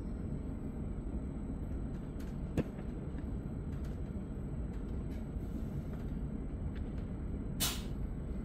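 Steady low rumble inside the passenger car of a Re 450 double-deck commuter train, with a single click about two and a half seconds in and a brief sharp hiss near the end.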